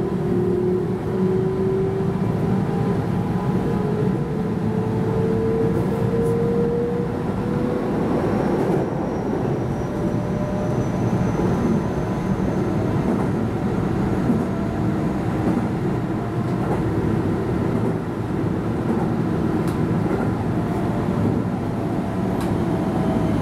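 Keihan 13000 series electric train running, heard from inside the driver's cab: the traction motor tone rises in pitch over the first several seconds as the train gathers speed, over a steady rumble of wheels on rail. A fainter falling tone comes in near the end.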